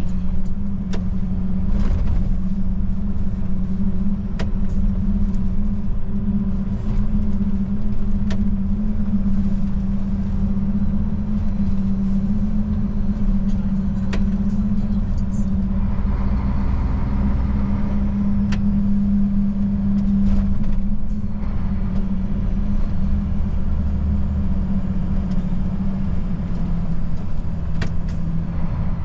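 Old Mercedes truck's diesel engine running steadily while driving, a constant drone over a low rumble with scattered light clicks and rattles; the engine note settles slightly lower about three-quarters of the way through.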